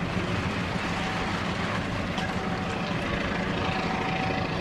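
Steady vehicle rumble with a faint high tone that comes and goes.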